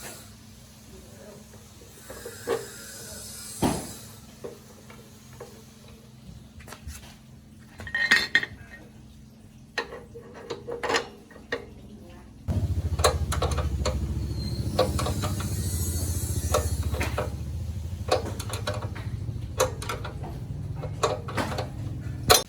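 Metal parts and tools clinking and tapping against each other in scattered knocks. About halfway through, a steady low hum of a running motor starts and continues under the clinks.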